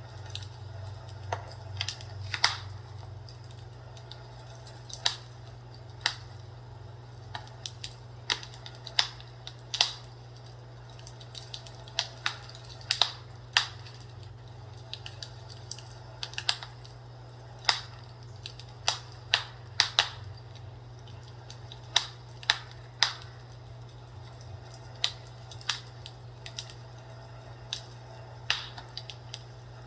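Fireplace crackling: irregular sharp pops and snaps, about one to three a second, over a steady low hum.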